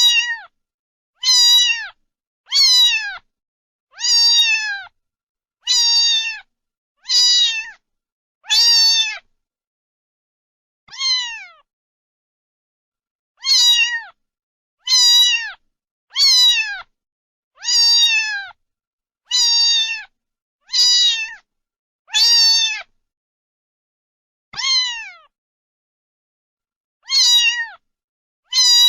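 A cat meowing over and over, about one meow every second and a half. Each meow is high and falls in pitch, with a few longer pauses between some of them.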